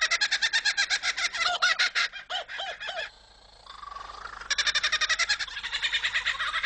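Superb lyrebird singing its mimicked song: fast runs of rapidly repeated high notes, a few lower arching notes, a short pause about three seconds in, then a rising note and another fast run of repeated notes.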